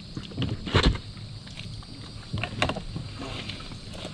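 Kayak being paddled: paddle strokes splashing in the water, with a sharp knock about a second in and a few lighter knocks later.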